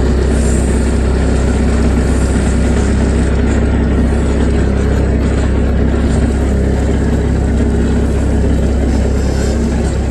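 Bobcat 763 skid-steer loader's diesel engine running steadily at a loud, even low hum, just after being started.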